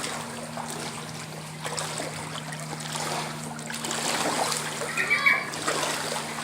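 Floodwater from heavy rain splashing and trickling, with many small irregular splashes and a steady low hum underneath. A short high call, like a child's voice, comes about five seconds in.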